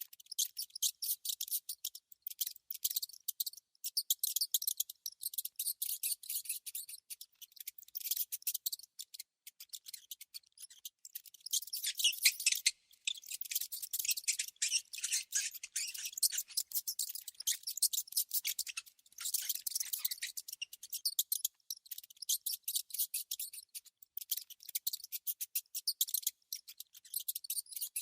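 Small rodents squeaking and chittering: runs of rapid, high clicks and chirps, broken by short pauses.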